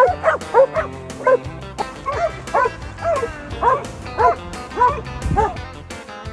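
A dog barking in a run of about a dozen short, high yips, roughly two a second, over country music with guitar.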